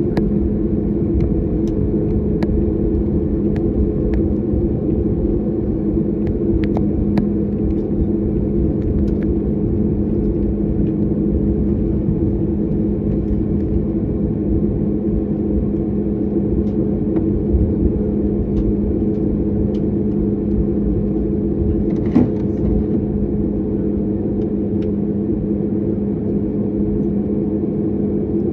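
Airliner cabin noise: the jet engines' steady low hum and rumble, even in level throughout, with a few faint clicks and rattles from the cabin.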